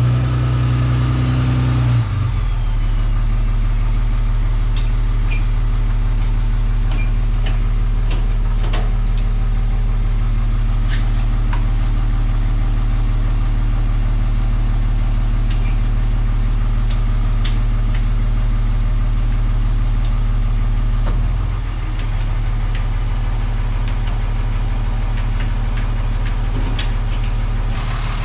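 Vehicle engine idling steadily; its note drops and settles about two seconds in.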